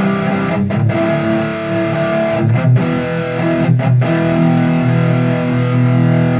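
Ibanez AZ242PGB electric guitar through distortion on a single-coil pickup setting, strumming a few chords and then letting the last chord ring out.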